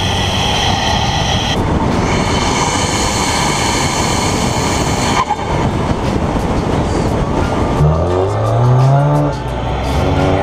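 Car engine and road noise at speed. About eight seconds in, the engine revs up under hard acceleration, drops at a gear change just after nine seconds, and climbs again.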